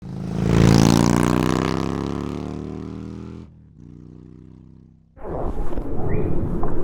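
A deep, pitched tone swells and fades slowly over about three seconds. About five seconds in, the Yamaha XSR155's single-cylinder engine cuts in suddenly, running with a quick pulsing beat through its DIY exhaust.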